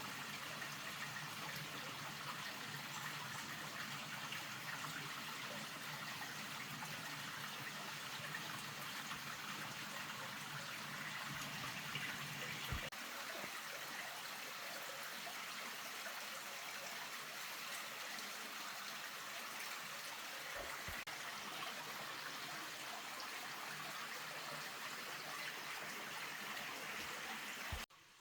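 Steady rushing of water, even and continuous, that cuts off suddenly near the end.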